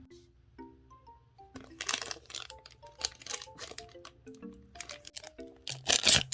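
Close-up eating sounds: crunchy bites and chewing of snacks, in several bursts, the loudest crunch near the end, over a light background tune of short plucked or mallet-like notes.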